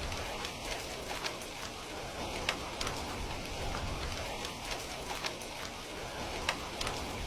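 Steady rain falling, mixed with a wood fire crackling: sharp pops and ticks about once a second over the even hiss of the rain.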